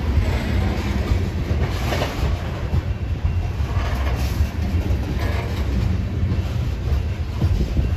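Coal gondola cars of a freight train rolling past close by: a steady low rumble of steel wheels on rail, with a few louder clatters from the wheels and cars.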